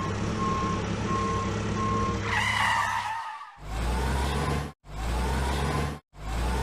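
Vehicle engine sound effects: a steady engine hum with an evenly repeating beep, then a brief squealing skid, then the engine revving up in three short clips, each rising in pitch and cut off abruptly.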